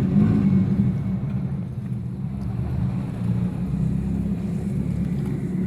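Exhaust of a modified show car running at low revs as it drives in, swelling in loudness at the start and holding steady, then stopping abruptly.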